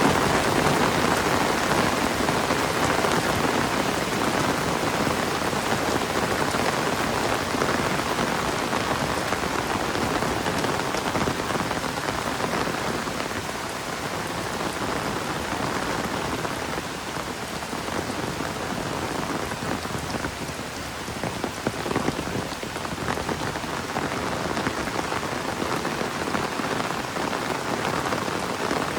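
Steady heavy rain falling and pattering on surfaces, a dense even hiss that eases slightly midway and picks up again.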